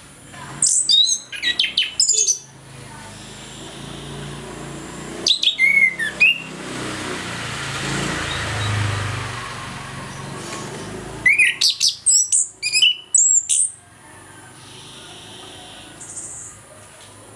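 Orange-headed thrush singing three phrases of rapid, varied notes: one about a second in, a shorter one around five seconds, and a longer one from about eleven to fourteen seconds.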